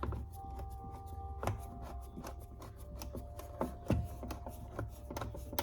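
Scattered small clicks and taps of a screw and the plastic door-panel trim being handled and fitted, over a low steady hum and faint held tones.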